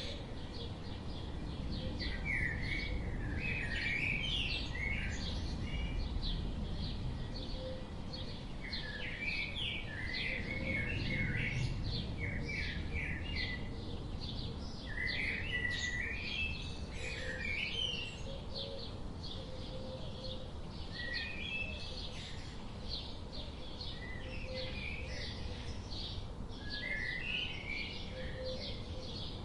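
Several small birds chirping and singing, a busy mix of short overlapping calls and warbled phrases, over a low, steady background rumble.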